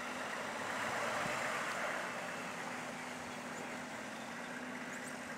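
A vehicle passing on a slushy, snow-covered road: the hiss of its tyres swells about a second in and slowly fades, over a faint steady engine hum.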